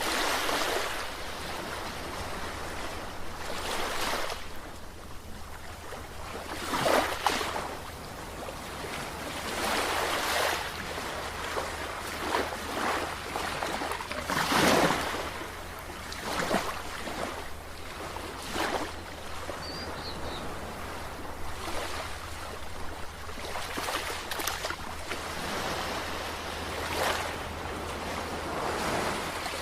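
Sea waves washing in, one surge after another every two to three seconds, with a steady low hum underneath.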